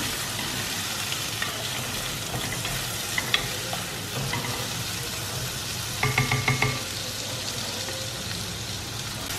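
Shallots, tomato and brinjal sizzling in hot oil in a clay pot, stirred with a wooden spoon that knocks against the pot now and then. A short pulsing tone is heard briefly about six seconds in.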